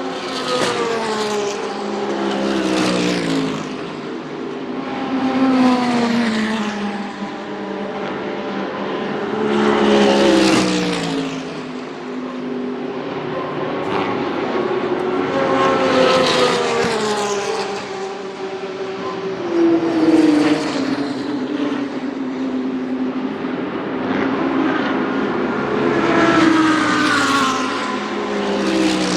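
GT3 race cars passing one after another at racing speed, about half a dozen in turn. Each engine note rises in loudness and drops in pitch as the car goes by.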